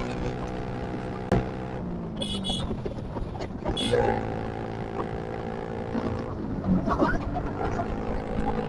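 Suzuki Gixxer's single-cylinder engine idling through a modified exhaust, a steady even note. It falls away about two seconds in and picks back up near four seconds.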